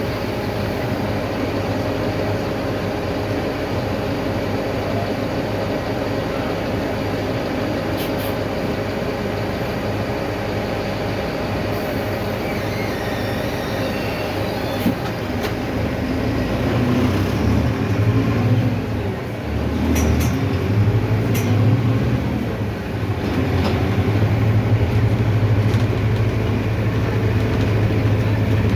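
Inside a moving city bus: the Mercedes-Benz OF-1519's diesel engine running under road noise and body rattles, its low drone growing louder about halfway through and dipping briefly twice, with a few sharp clicks along the way.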